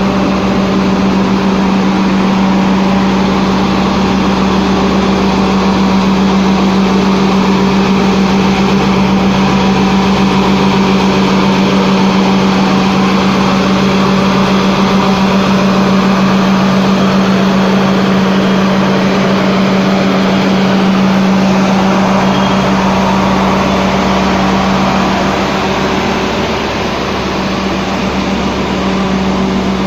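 Heavy truck's diesel engine running steadily with a constant low drone, dipping slightly in loudness near the end.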